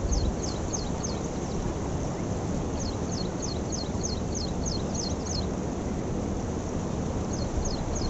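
A bird calling in runs of short, high, downward-sweeping notes, about four a second: a short run at the start, a longer one in the middle and another near the end. Behind them is a steady rushing hiss.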